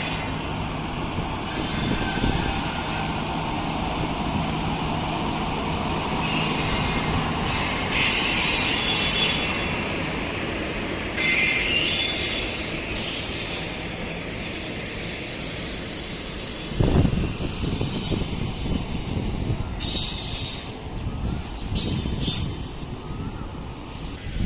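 Intercity Express passenger train pulling out of the station, its coaches rolling past with a steady rumble and intermittent high-pitched wheel squeal.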